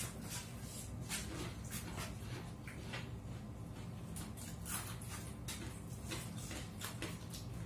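Mouth sounds of a person eating goat satay: chewing and lip smacks, a string of small irregular clicks.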